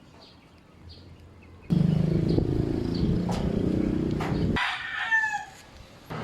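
A rooster crowing once, in a short rising-and-falling call a little after the middle. Before it, a loud low motor runs for about three seconds and starts and stops abruptly.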